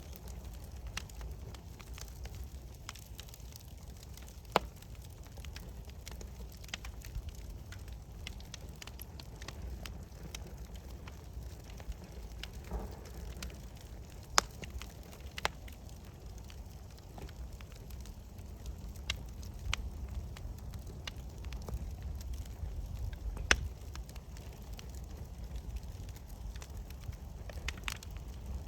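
Campfire crackling steadily, with a low rumble beneath and scattered sharp pops from the burning wood, four of them louder than the rest.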